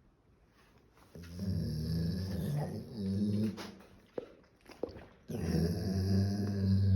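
Golden retriever giving two long, low growling grumbles, the first about two and a half seconds and the second about two seconds, with a few short sharp clicks in the pause between.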